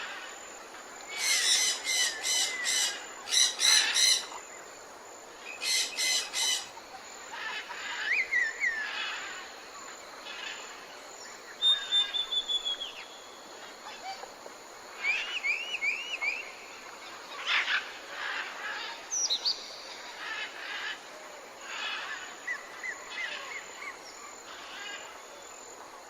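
Birds calling and chirping outdoors: clusters of short, repeated high calls and quick up-and-down whistled notes, some louder bursts near the start, over a steady background hiss.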